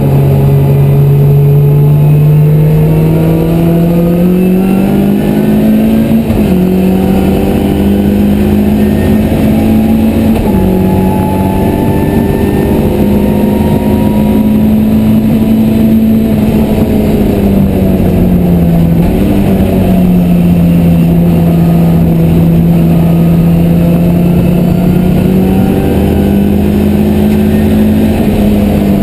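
Mk1 Ford Escort's Zetec four-cylinder engine heard on board, pulling at high revs on track, its note rising and falling with the throttle. There are sudden drops in pitch about six, ten and nineteen seconds in, and again at the very end.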